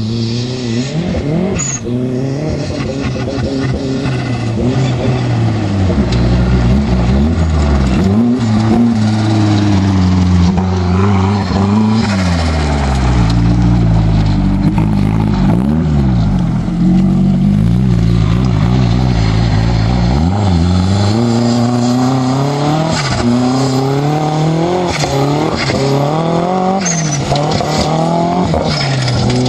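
Pro-Lite off-road race truck's engine being driven hard on dirt, its revs climbing and dropping again and again as the throttle is worked.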